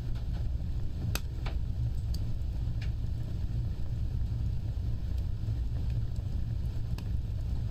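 Wood fire burning, a steady low rumble of flames with a handful of sharp crackles and pops; the loudest pop comes about a second in and another near the end.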